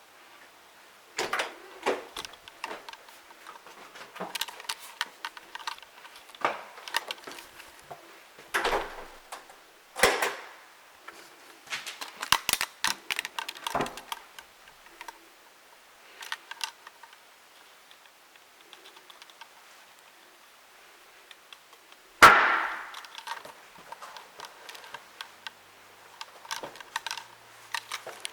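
Scattered sharp clicks and knocks, with one loud bang about three quarters of the way through that rings on briefly.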